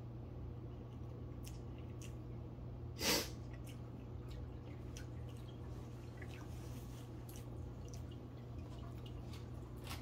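Faint chewing of a mouthful of fries, soft clicks and wet mouth sounds, with one short sharp sniff about three seconds in, over a steady low hum.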